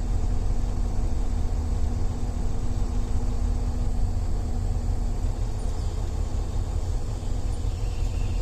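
Big-rig diesel engine running, heard from inside the truck's cab: a steady low rumble with a constant hum.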